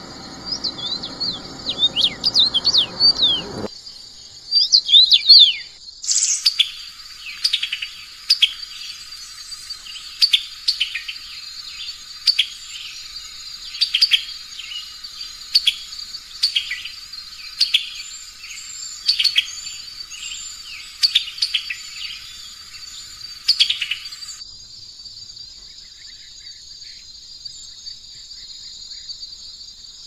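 Songbirds singing over a steady, high insect trill. Quick chirps and whistles come in the first few seconds, then a bird repeats short calls about once a second until a few seconds before the end, when only the insect trill is left.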